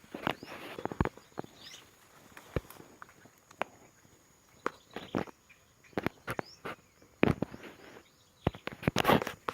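Irregular rustling and sharp crackling, a scatter of short dry snaps and brushing sounds, loudest near the end.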